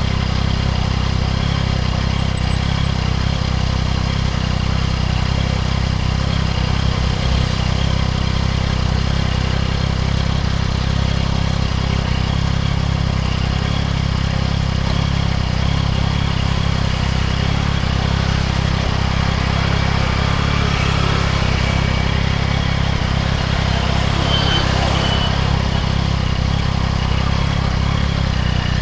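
A 2024 Yamaha MT-09 SP's inline three-cylinder engine running steadily through a Spark full exhaust, with an even, low-pitched note and no revving.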